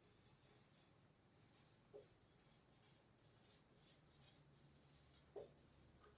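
Faint scratching of handwriting in short strokes. There are two soft taps, about two seconds in and near the end.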